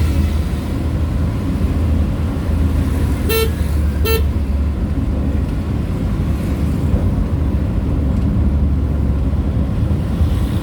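A vehicle horn beeps twice, two short toots about a second apart, over the steady low rumble of a vehicle on the road.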